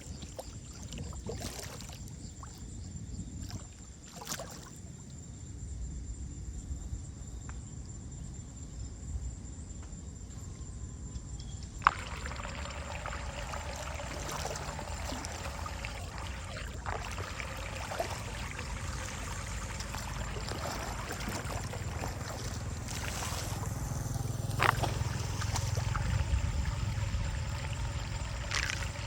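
Water trickling and pouring over a steady low rumble that grows louder near the end, with one sharp knock about twelve seconds in.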